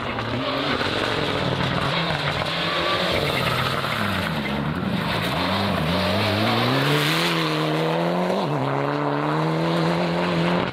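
Rally car engine pulling hard through the gears. The revs fall away about four seconds in, then climb steadily, drop sharply at an upshift about eight and a half seconds in, and climb again.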